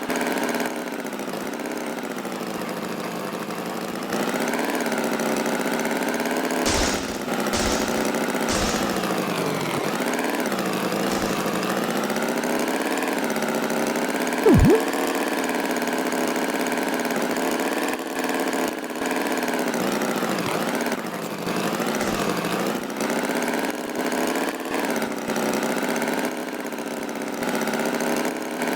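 Tractor engine running steadily, its pitch wavering slowly up and down. Three sharp clicks come about seven to nine seconds in, and a short sharp blip comes about halfway.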